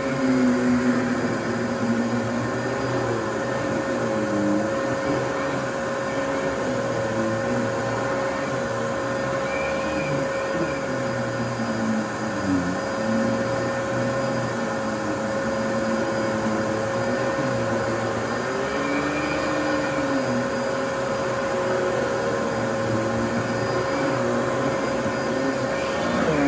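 Fantom Lightning vacuum cleaner running continuously: a steady whine with lower tones that rise and fall.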